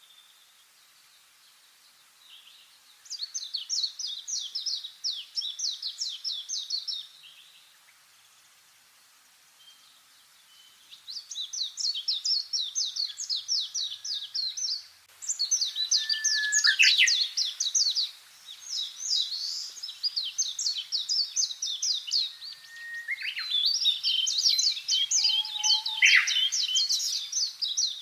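Songbird singing fast, high trills of short repeated chirps, in bouts of a few seconds with short pauses between them.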